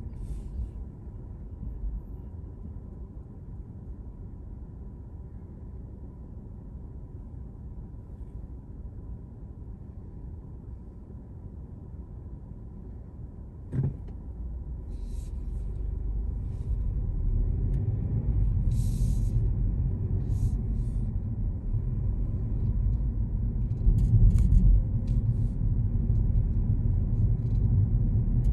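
Low, steady road and engine rumble of a car heard from inside the cabin, growing louder about halfway through, with a single sharp click just before the rise.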